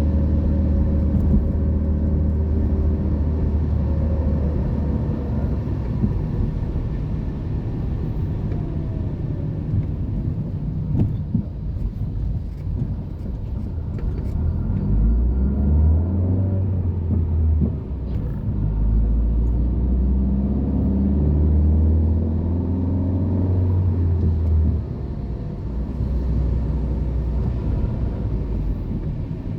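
Car engine running with a low rumble, its engine note stepping up and down a few times in the second half.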